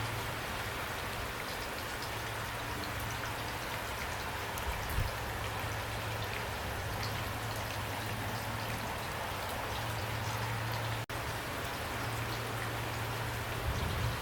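Pouring rain, a steady hiss with individual drops ticking through it and a low steady hum underneath. The sound cuts out for an instant about eleven seconds in.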